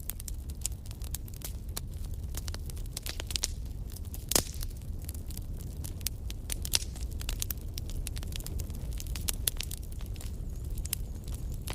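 Wood fire crackling in a fireplace: irregular sharp pops and snaps over a steady low rumble of the flames, with one louder pop about four and a half seconds in.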